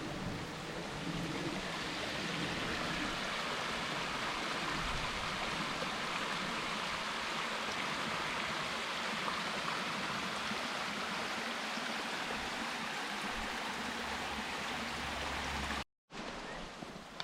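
Steady rushing of flowing water, like a creek running over rocks, even and unbroken throughout.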